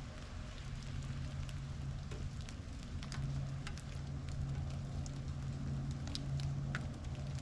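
Light rain falling, with many scattered drops ticking sharply against a steady hiss, over a low steady hum.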